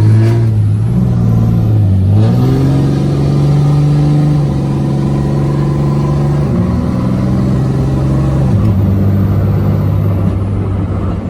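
Truck engine running under load while driving. Its pitch climbs about two seconds in, holds, then drops in two steps, about six and a half and eight and a half seconds in, like gear changes.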